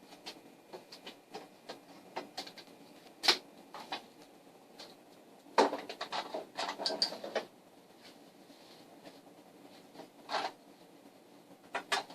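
Light clicks, taps and short rattles of a measuring tool, pencil and aluminum piece being handled on a work surface during measuring and marking. A run of rattling knocks comes in the middle, with single sharper clicks about a quarter of the way in, later on, and twice near the end.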